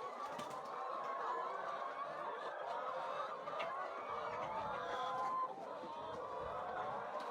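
A flock of chickens clucking and calling, many overlapping calls at once without a pause.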